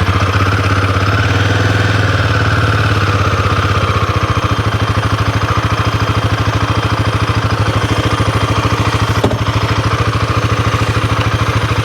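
Royal Enfield Himalayan 450's single-cylinder engine idling steadily just after being started, an even stream of firing pulses. A small click about nine seconds in.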